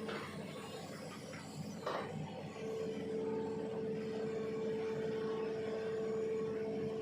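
Hitachi ZX200-5G long-arm excavator's diesel engine running steadily under hydraulic load, with a steady hydraulic whine setting in about two and a half seconds in, just after a short knock.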